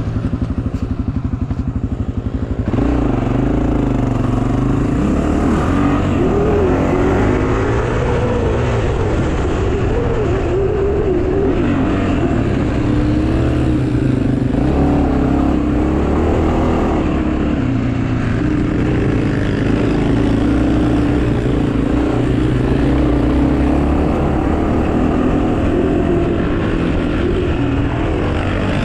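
Pit bike engine running, picking up revs about three seconds in, then rising and falling in pitch as it is ridden or throttled.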